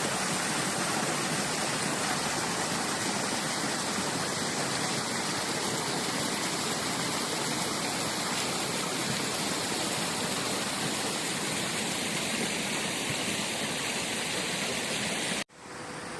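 Steady rushing water, a loud even hiss. It cuts off abruptly near the end and a quieter rush resumes.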